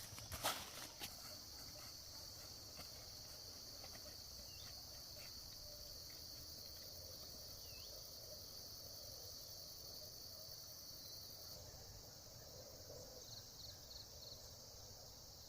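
A steady, high-pitched chorus of insects that carries on unbroken, with a few sharp knocks about half a second in.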